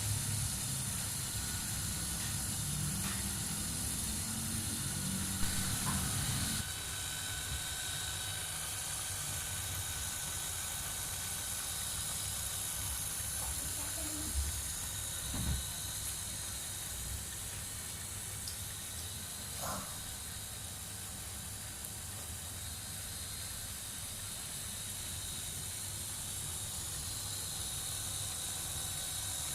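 Homemade fishing-rod repair machine running steadily with a hissing motor sound, turning the rod while the glue cures. A few faint clicks and knocks stand out over it.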